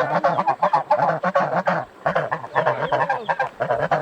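A flock of geese honking and cackling in rapid, overlapping calls, with a brief lull about two seconds in.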